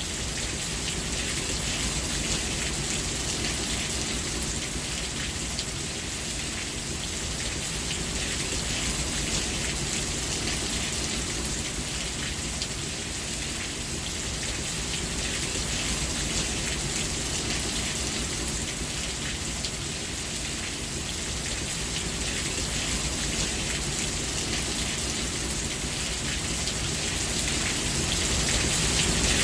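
Steady rain falling on a surface, a dense even hiss of many drops, growing a little louder near the end.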